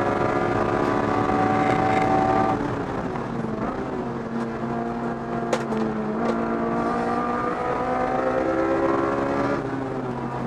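Honda S2000's F20C 2.0-litre VTEC four-cylinder engine at racing revs, heard from inside the car's cabin. The engine note falls about two and a half seconds in, holds lower, then climbs steadily from about six seconds and falls again near the end.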